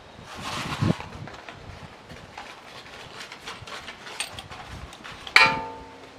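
Small handling clicks and rustles, then a single loud metallic clang about five seconds in: a metal part or tool striking metal and ringing on briefly.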